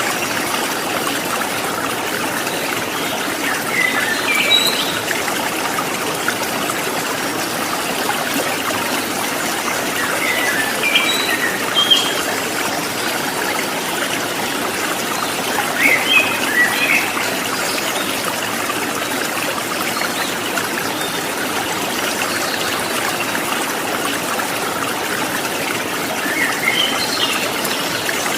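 Steady trickling water, like a small stream, with short bursts of bird chirps a few times over it.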